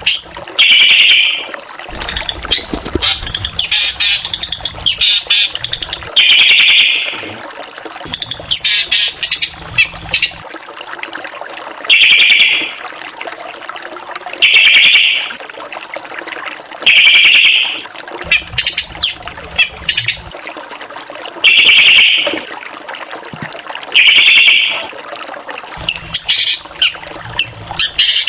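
Black drongo singing: loud, even single notes every two to three seconds, alternating with bursts of rapid, varied chattering phrases.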